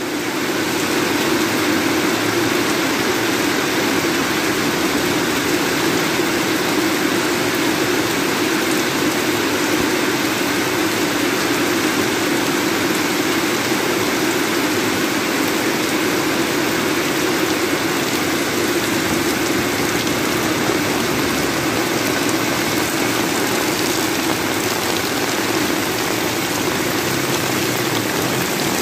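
Heavy rain pouring down steadily: a dense, even hiss of downpour on tiled roofs and a wet paved road.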